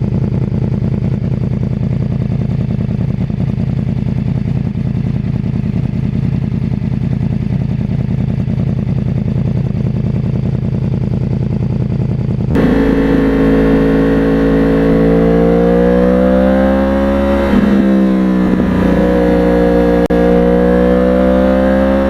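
Yamaha 2009 YZF-R1's crossplane inline-four running through a custom exhaust on the move: a steady low drone, then, after an abrupt change about twelve seconds in, the engine note rising, dipping and rising again as the revs vary.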